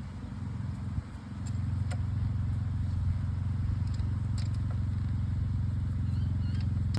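A steady low engine drone, with a few light metallic clicks as wheel nuts and washers are fitted to a tractor wheel hub.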